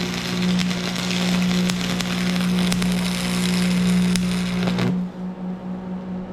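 Arc welding: a dense, steady crackle of the arc with sharp pops, which cuts off suddenly about five seconds in. A steady low hum carries on underneath.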